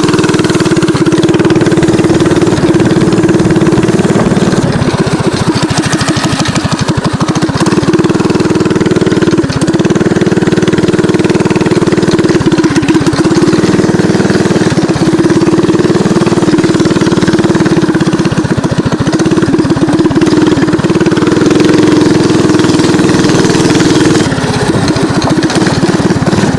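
Mini bike's small engine running under way, the throttle easing off and picking up again every few seconds.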